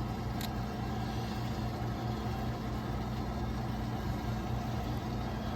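Steady low machine hum, with one faint click about half a second in.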